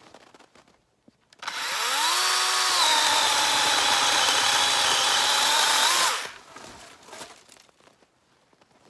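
DeWalt 20V cordless battery chainsaw's electric motor whirring up to speed and cutting through a small dead birch. Its pitch drops slightly as the chain bites into the wood, then rises briefly just before it shuts off.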